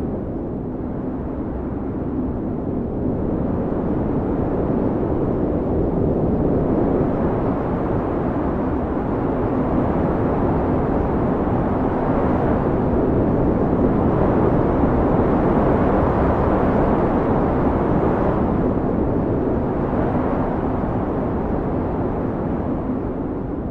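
Howling blizzard wind blowing steadily with snow, rising into a stronger gust around the middle and easing off again toward the end.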